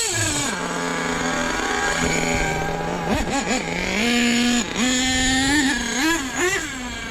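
Small nitro RC truck engine idling, then blipped a few times, its pitch jumping up and dropping back in short bursts. The engine stumbles rather than pulling cleanly, which the owner takes for an air leak making it run lean.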